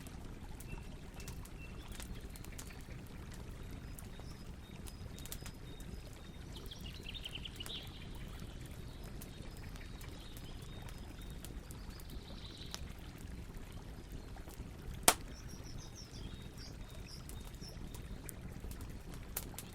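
Campfire crackling: scattered small pops over a low steady rumble, with one sharp, much louder pop about fifteen seconds in. Birds chirp briefly now and then in the background.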